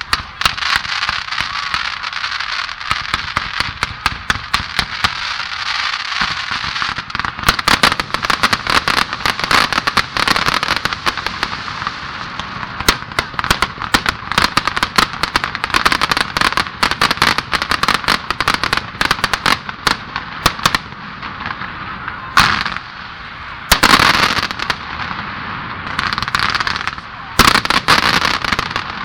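Fireworks display: a dense, continuous barrage of aerial shell bursts and crackling, with especially loud clusters of bangs in the last several seconds.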